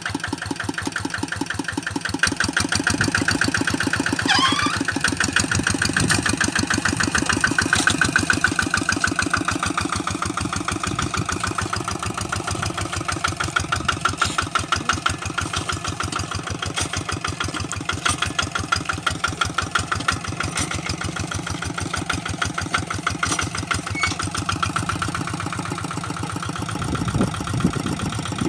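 Engine of a hand tractor plowing a rice paddy, running steadily with a rapid, even pulsing beat, a little louder in the first third.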